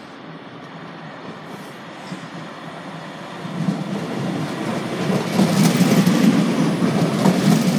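Northern Class 331 electric multiple unit running into the platform, the rolling sound of its wheels on the rails growing louder as it approaches, loudest over the last few seconds as the carriages pass close by.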